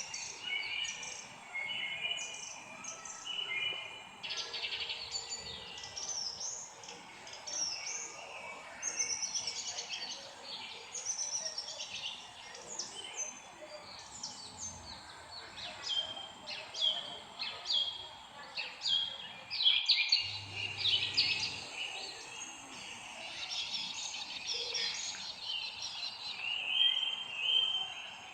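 Several songbirds chirping and singing at once: a steady stream of short, high chirps and trills, with louder calls around two thirds of the way through, over a faint steady background hiss.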